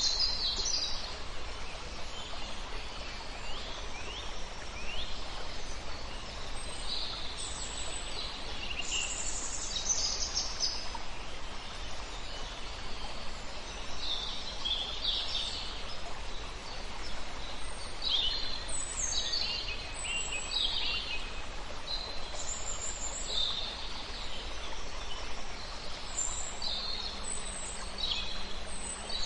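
Several songbirds singing and chirping in scattered bursts of short, high calls, some sweeping downward, over a steady hiss of flowing river water.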